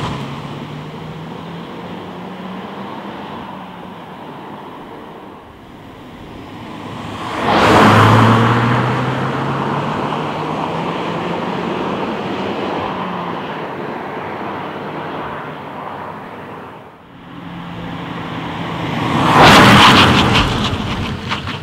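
2015 Peugeot 308 GT's 1.6-litre turbo petrol four-cylinder driving past, engine note and tyre noise rising and falling with distance. It swells loudly as the car passes close about eight seconds in and again near the end, with the engine pitch climbing under acceleration on the first pass.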